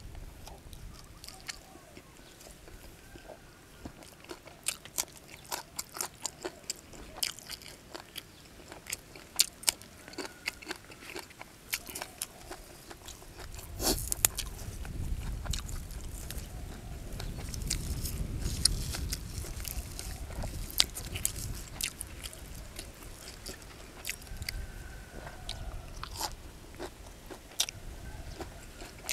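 A man chewing and biting mouthfuls of shrimp laab and fresh leaves, with many irregular sharp crunches.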